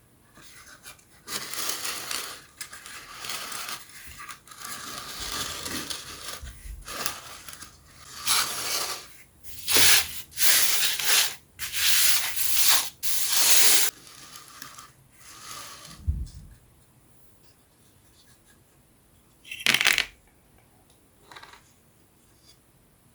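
Wooden puzzle parts rubbing and scraping against each other as they are handled, in a series of rubbing strokes, the four loudest close together past the middle, then one short scrape near the end.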